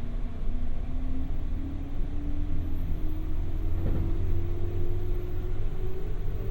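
Running sound of a JR West 201 series electric train, heard from inside a MoHa 201 motor car as it accelerates. A steady low rumble of wheels on rail runs under the traction motor whine, which climbs steadily in pitch.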